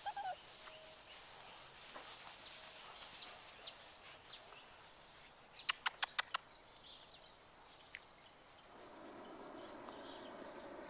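Small birds chirping in short, repeated high calls, with a quick run of five sharp clicks about six seconds in. A steady rushing sound sets in near the end.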